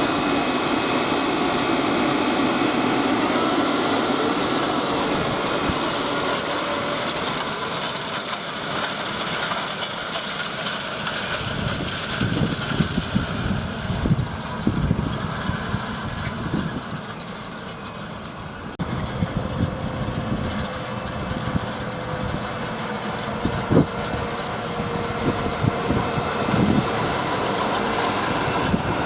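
Tractor engine running steadily at work. About twelve seconds in, irregular low thumps join it, and the overall sound eases briefly a few seconds later.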